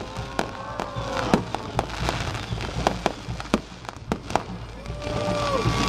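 Fireworks display: a quick run of sharp bangs and crackling pops. A held high tone sounds near the start and again near the end, each dropping away as it ends.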